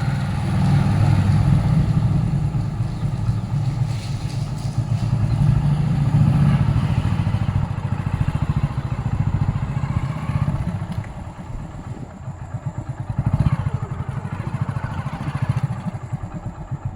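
Motorcycle engine running under way at low speed, its loudness rising and falling, with a dip about two-thirds of the way through.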